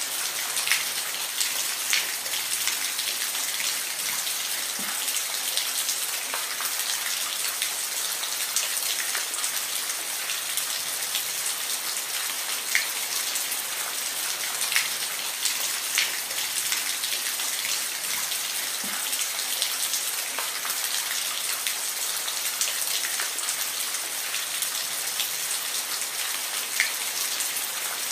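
Steady rainfall, a dense even hiss with individual drops ticking sharply here and there as they land on a surface.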